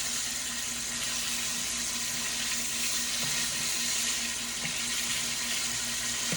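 Chicken wings frying in hot oil: a steady, even sizzle, with a faint steady hum underneath.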